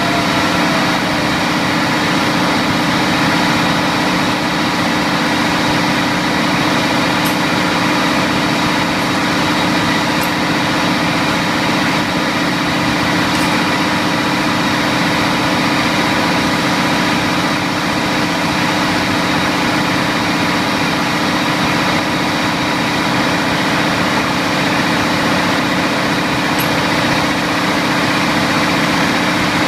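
Steady, loud machinery noise of a ship's engine room, an even drone with several constant tones running through it and a few faint clicks.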